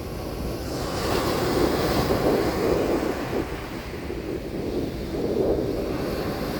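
Mediterranean Sea waves breaking and washing up a beach: a surge of surf swells about a second in and fades, then another rises near the end. A low wind rumble on the microphone runs underneath.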